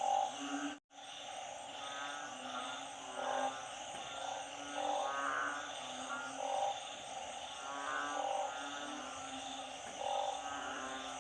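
A chorus of calling frogs, narrow-mouthed frogs (อึ่ง) and small paddy frogs (เขียด), with overlapping croaks repeating every second or two over a steady high hum. The sound cuts out completely for a moment about a second in.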